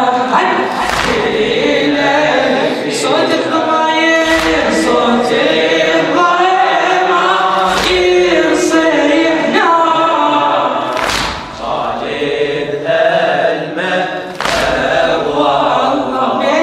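Group of men chanting a Shia latmiyya lament together. A heavy beat cuts through the singing about every three and a half seconds, typical of the mourners striking their chests in time.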